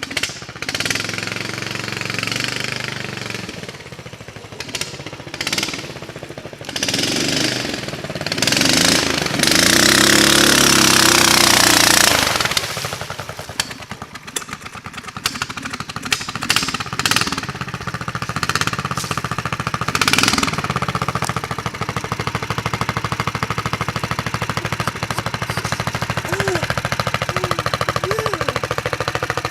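The mini-bike trike's 420 cc single-cylinder four-stroke engine runs and revs up and down under riding, then settles to a steadier drone in the second half. A loud rushing noise lasts about three seconds, roughly a third of the way in.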